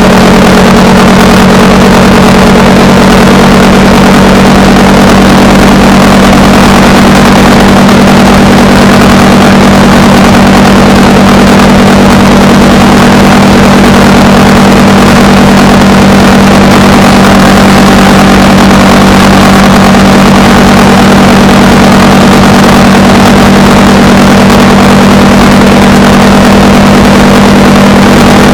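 Honda Rebel 300 motorcycle's single-cylinder engine running at a steady pitch while cruising, very loud on the microphone, over a constant rushing noise.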